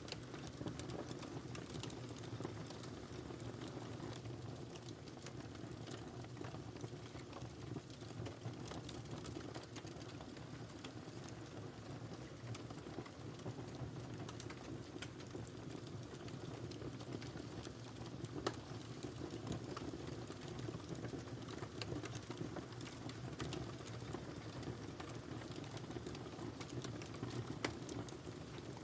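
Wood fire crackling in a fireplace: a steady low rumble of flames with many small, irregular crackles and two sharper pops, one about two-thirds of the way through and one near the end.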